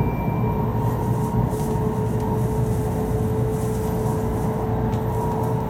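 Cabin noise inside a 500 series Shinkansen passenger car: a steady low rumble with a faint constant hum.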